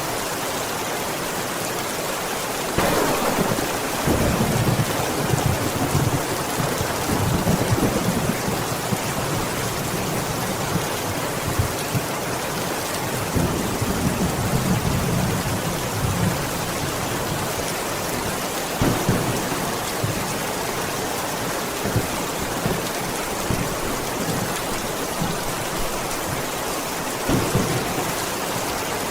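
Steady heavy rain hissing. Thunder rumbles from about three seconds in for over ten seconds, with shorter rumbles later.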